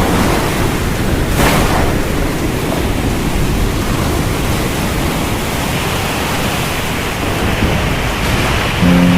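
Heavy rain pouring down as a loud, steady wash of noise, with a brief louder burst about one and a half seconds in.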